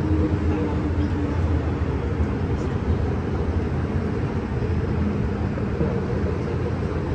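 MTR M-Train electric multiple unit running at speed through the tunnel, heard from inside the car: a steady loud rumble of wheels on rail and running gear, with a faint motor tone in the first second or so.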